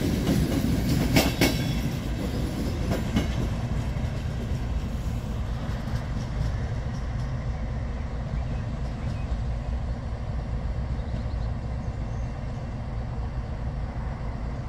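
Passenger coaches of an express train rolling away: the wheels click over rail joints a few times in the first second or two, then a steady low rumble slowly fades as the train draws off.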